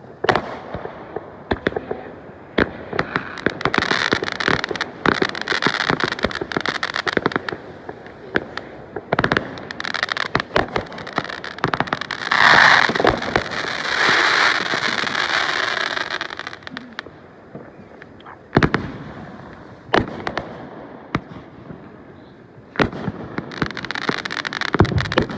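Fireworks going off: a rapid string of sharp bangs and pops with crackling. The crackle is densest and loudest about halfway through and builds again near the end.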